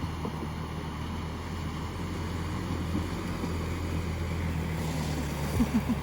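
Vehicle engine idling steadily with a low hum, with a few quick low pulses near the end.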